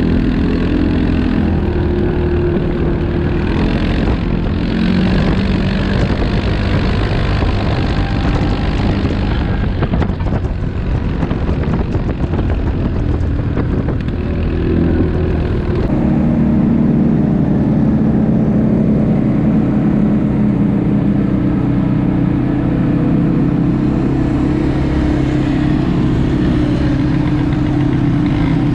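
ATV engine running under way, its pitch shifting with the throttle, then holding steady through the second half.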